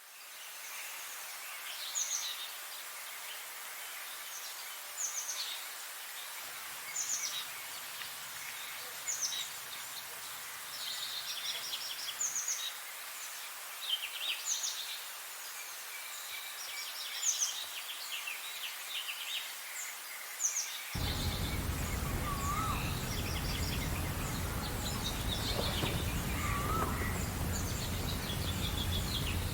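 Several songbirds singing, short high chirping phrases repeating every second or two over a steady hiss. About two-thirds of the way through, a low rumble comes in suddenly and stays, with a few lower swooping calls over it.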